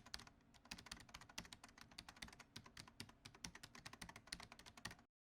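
Faint, rapid, irregular clicking, several clicks a second, like keys being typed; it cuts off abruptly near the end.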